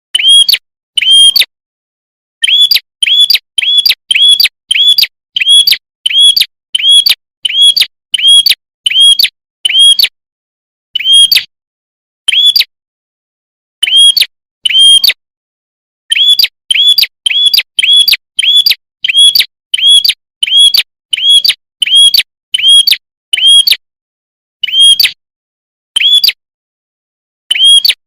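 Prenjak kepala merah, a small Indonesian warbler, giving a loud, clear lure call. It is a fast series of short, sharp chirps that each flick upward, about two a second, in runs broken by brief pauses.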